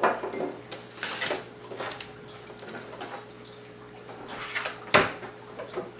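Light clicks and knocks of a plastic laptop being handled and moved on a work surface, with a sharper knock about five seconds in.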